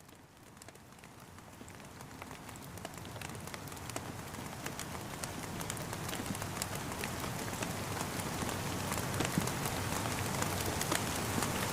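Steady rain falling, with many individual drops tapping through an even hiss. It fades in gradually, growing louder throughout.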